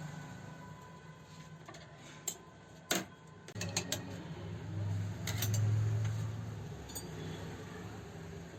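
A few sharp metallic clicks and clinks, like metal parts and tools being handled during a sewing-machine repair, the loudest about three seconds in. Under them a low hum swells in the middle and fades again.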